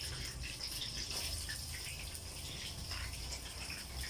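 Breaded chicken cutlets deep-frying in hot oil: a steady sizzle with scattered small crackles.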